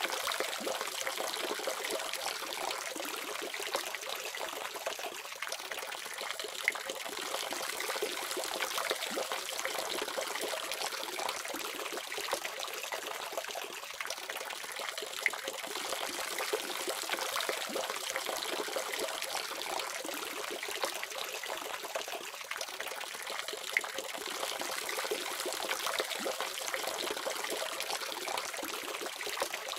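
Tap water running steadily from a faucet, a continuous splashing hiss with occasional small splashes.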